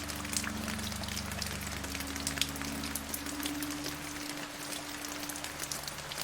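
Steady rain: a dense, even hiss with many distinct drops pattering on a surface. Underneath run low sustained tones that shift a couple of times, like a soft drone.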